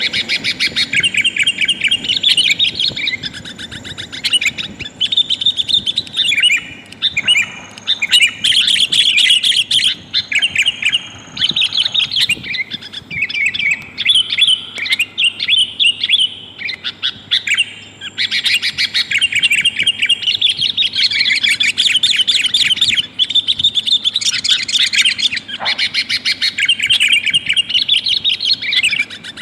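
Sooty-headed bulbul, a female calling to a male, in busy, rapid runs of chattering notes broken by brief pauses.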